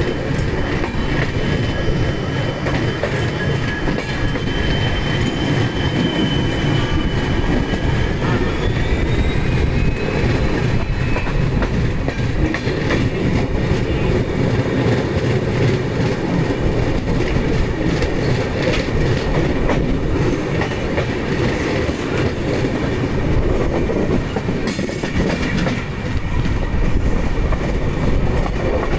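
Indian Railways passenger train running, heard from an open coach door: a steady rumble of wheels on rail with the clickety-clack of rail joints. A thin, high wheel squeal sounds over it for about the first ten seconds and rises in pitch shortly before it fades.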